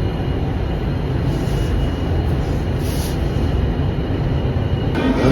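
Train running, a steady low rumble throughout, with a brief high hiss about three seconds in.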